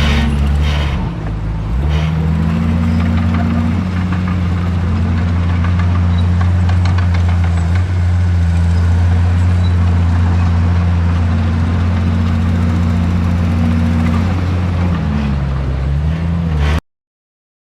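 Heavy diesel engine of earthmoving equipment running hard. It picks up about two seconds in, holds a steady pitch, then drops and wavers near the end before the sound cuts off abruptly.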